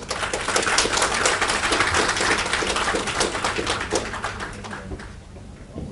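Audience applauding, a dense patter of clapping that fades away about five seconds in.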